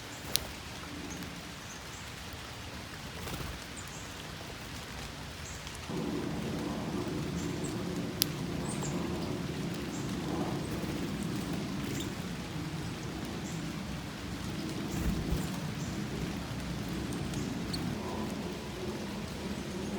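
Steady rain falling, with a low rumbling that joins in and makes it louder about six seconds in. Occasional sharp ticks of drops sound over it.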